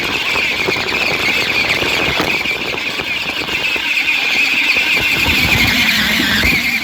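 Toy radio-controlled car's small electric motor and plastic gears whining at a steady high pitch as it drives, with scratchy rumble from the wheels over the ground; the whine drops briefly near the end.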